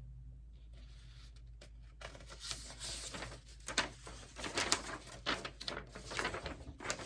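Packaging being handled: irregular crinkling and rustling of paper or plastic wrapping, starting about two seconds in after a quiet start.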